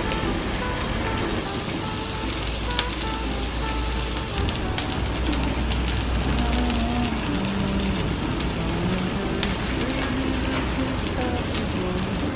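Salmon steak frying in hot oil in a nonstick pan: a steady sizzle with many small crackles and spits. Soft background music with a melody and low bass runs underneath.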